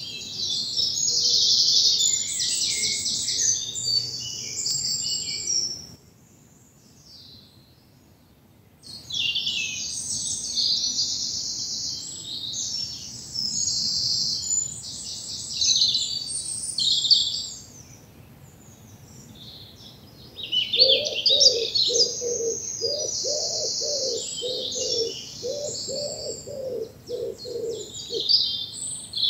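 Several songbirds singing at once in a dawn chorus, high overlapping songs and trills, with a lull of a few seconds early on. Later, a low call repeats steadily for several seconds beneath the songs.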